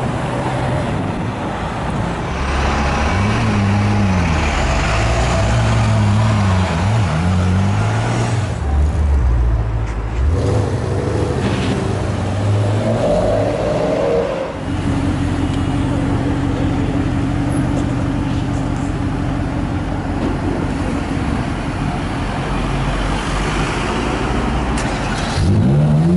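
Ferrari 458 Italia's V8 revving hard as it pulls away, its pitch climbing and dropping several times over the first ten seconds. After a cut, an engine holds a steady drone for several seconds. Near the end, a Ferrari 458's V8 revs up again.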